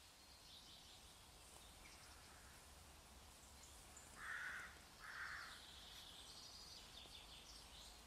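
Quiet woodland ambience with faint high bird calls, and two harsh bird caws in quick succession about four seconds in.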